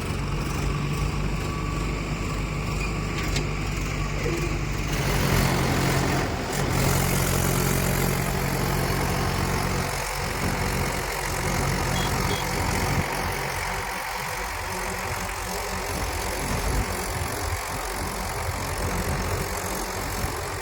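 Tractor or backhoe diesel engine running steadily, the engine note shifting about five seconds in.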